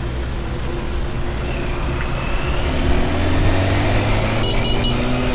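Motorbike engine running under a steady rush of road noise, its pitch rising as it picks up speed about halfway through. Three short high beeps sound near the end.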